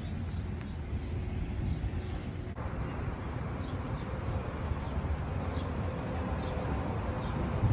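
Outdoor ambience: a steady low rumble, with a series of faint, short, high bird chirps that falls in pitch.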